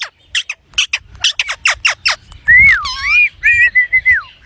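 Pet green parrot calling. It gives a quick run of about ten short, sharp squawks, then clear whistled notes that swoop down and back up and hold level.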